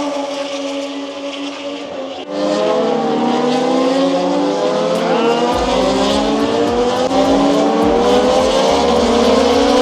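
MotoGP racing motorcycles running on the circuit, several engines at once, their pitches rising and falling. About two seconds in, the sound jumps and gets louder.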